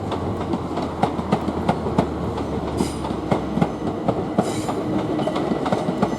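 Southern Class 377 electric multiple unit departing, its wheels clicking irregularly over rail joints and pointwork over a steady low rumble, with brief hisses about three and four and a half seconds in.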